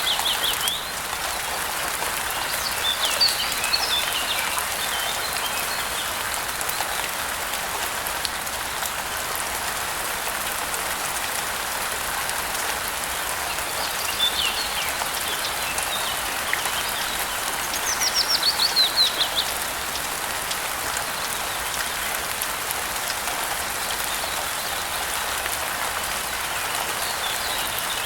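Steady rain hiss with birds singing over it. A fast trill of notes that falls in pitch comes near the start and again about two-thirds of the way through, with softer twittering chirps in between.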